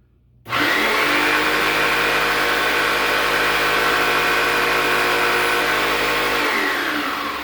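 Electric power saw switched on, its motor running at steady speed for about six seconds, then switched off and spinning down with a falling hum near the end.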